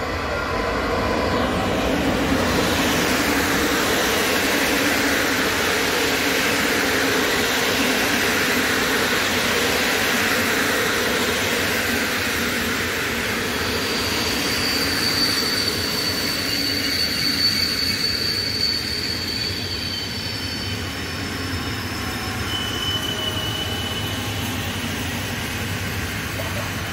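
EP07 electric locomotive hauling a passenger train past, its whine falling in pitch as it goes by. A long rake of coaches then rolls past with a steady rumble. Thin, high, steady squeals come in about halfway through as the train slows.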